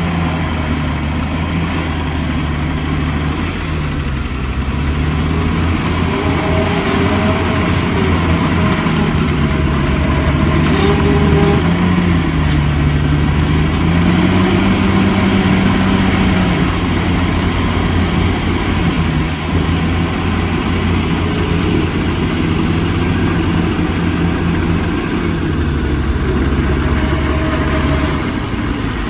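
Heavy diesel engine of earthmoving machinery running steadily, its pitch rising and falling several times as the throttle changes.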